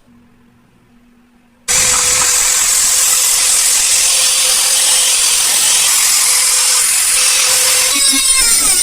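A machine starts abruptly about two seconds in and runs loud and steady, a hissing noise over a steady hum.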